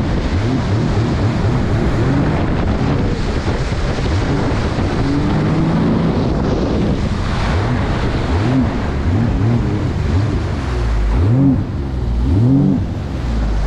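Jet ski engine revving up and down again and again as it turns circles, with wind noise on the microphone.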